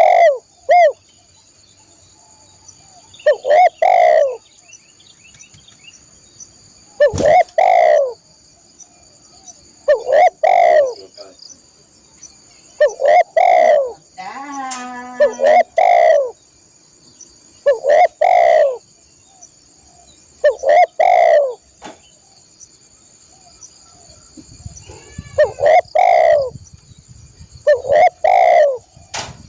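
Spotted dove (tekukur) cooing: a short phrase of a few low notes, repeated about every two to three seconds. A steady high-pitched ringing runs underneath.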